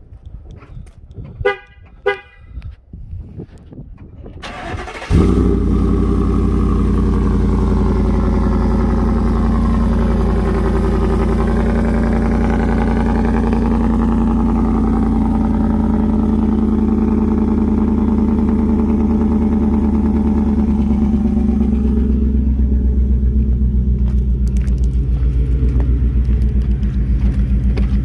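Ford F-150's 5.0 Coyote V8 cold-starting through long-tube headers and a catless 3-inch Borla XS Pro exhaust: a few short beeps and clicks, a brief crank, then the engine catches loudly about five seconds in and runs at a steady fast cold idle. Near the end the idle drops and turns lumpier and pulsing.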